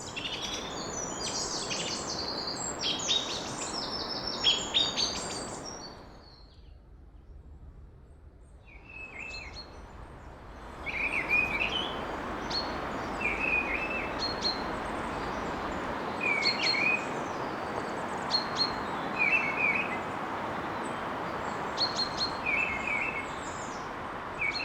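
A song thrush sings dense, varied phrases for about the first six seconds. After a brief lull, another bird repeats one short phrase every couple of seconds, a slightly downbeat, sadder song than the song thrush's and without its variation. A steady rushing background noise runs underneath.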